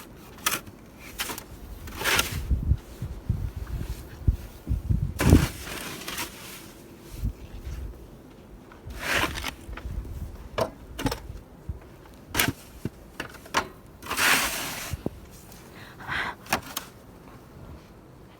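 Crunching and scraping in deep fresh snow: several separate strokes a few seconds apart, with low thuds around the first few seconds, as snow is shoveled and trodden through.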